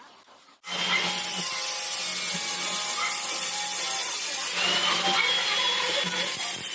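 A power tool starts abruptly about half a second in and runs steadily with a harsh, rasping hiss, like abrasive work on metal.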